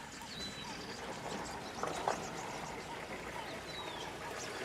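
Open-air ambience with birds giving short, high chirps that slide in pitch, one just after the start and one near the end, and two short knocks about two seconds in.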